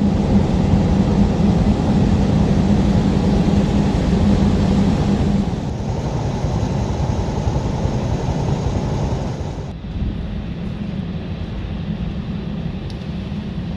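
Loud, steady roar of a strong windstorm with heavy rain, wind buffeting the microphone. The sound shifts abruptly twice, about six and ten seconds in.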